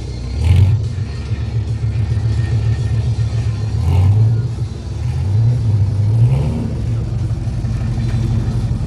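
Dodge Viper ACR's V10 engine rumbling at low speed as the car pulls in, its pitch rising briefly a couple of times under light throttle.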